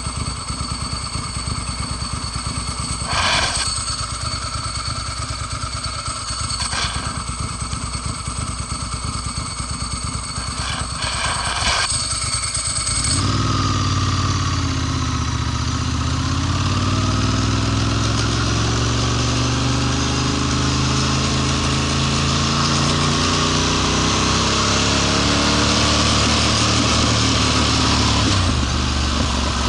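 Ducati Monster S4's liquid-cooled four-valve L-twin engine. It idles unevenly with a few sharp knocks, then about 13 seconds in it speeds up and runs louder under load, its pitch slowly rising and falling before it drops near the end.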